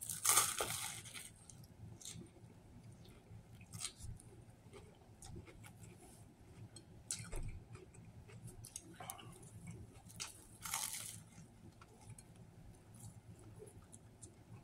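A person biting into a sub sandwich on crusty bread, with a loud crunch at the start. Close-up chewing follows, with scattered clicks and a few more crunchy bursts.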